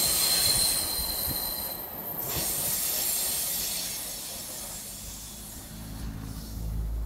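Passenger coaches rolling past and pulling away, their steel wheels squealing high on the rails over the first two seconds. The rumble and clatter then fade as the train recedes. Near the end a low steady hum comes in.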